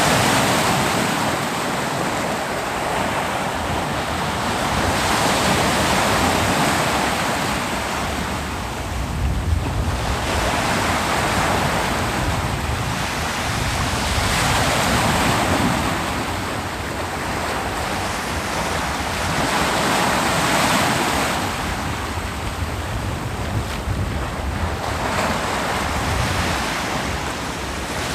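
Ocean waves breaking on a beach, a continuous surf hiss that swells and recedes every few seconds.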